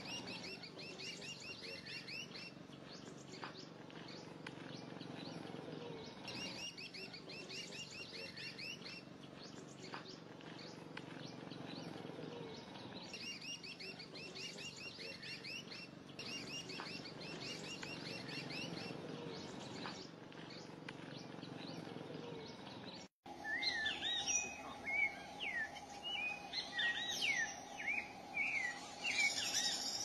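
Small birds chirping in short phrases that repeat every few seconds. After a break about 23 seconds in, louder, quick rising and falling chirps follow over a steady hum.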